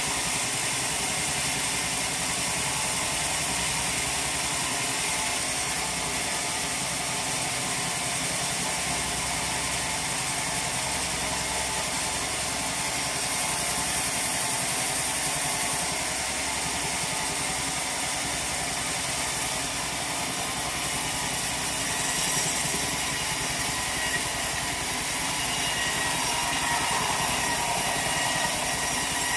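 Sawmill machinery running steadily at an even level, a continuous mechanical clatter and hum with no pauses.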